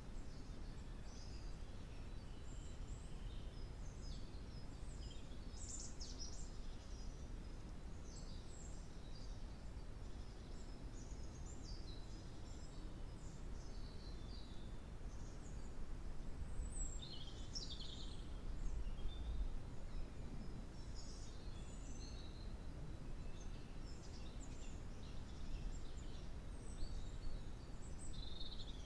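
Small birds chirping and calling, many short high calls scattered throughout, over a steady low rumble of background noise.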